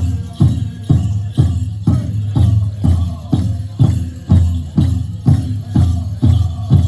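Powwow big drum beaten in a steady unison beat, about two strokes a second, with a jingling of bells over it.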